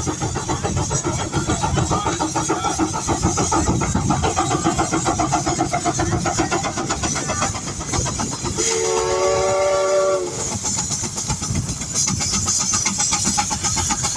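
Steam engine working under a pulling load, its exhaust beating rapidly and steadily, with a steam whistle blown once for about two seconds past the middle.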